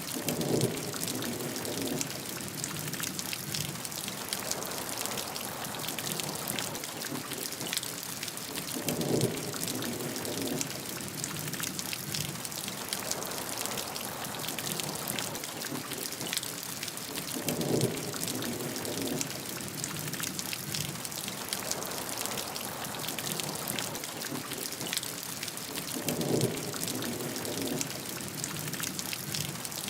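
Steady rain with a dense patter of drops hitting a surface. A short, louder, deeper surge comes four times, about every eight to nine seconds, a regular spacing that suggests a looped recording.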